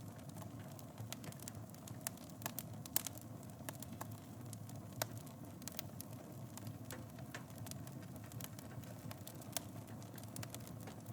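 Wood fire burning in a fireplace: a steady low rumble of flames with irregular crackles and sharp pops, the loudest pop about three seconds in.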